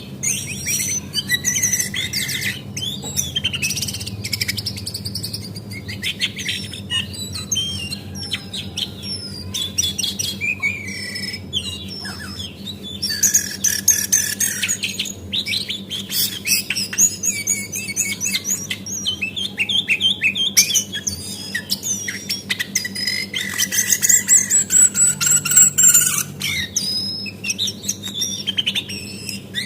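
Brown female cingcoang (white-browed shortwing) singing a fast, unbroken run of high chirps and whistles. A steady low hum runs beneath.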